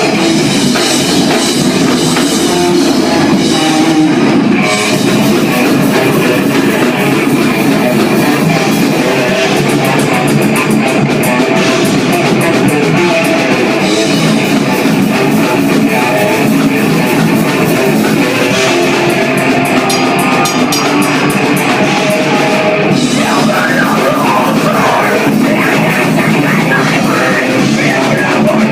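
Live band playing a loud heavy rock song on guitar and drum kit.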